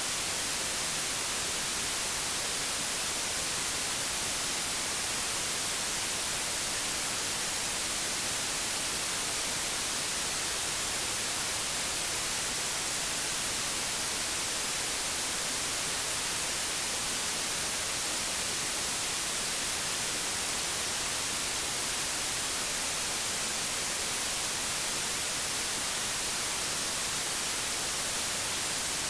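Steady hiss of analogue television static, even and unchanging, bright and strongest in the high frequencies.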